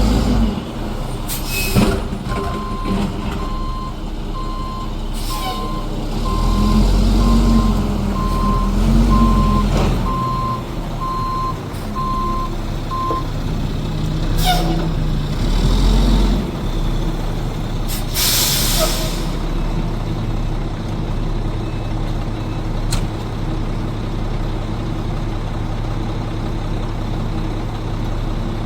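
Garbage truck backing up, its reversing alarm beeping about once a second while the diesel engine rises and falls. The alarm stops, the air brakes release a short hiss, and the engine settles to a steady idle.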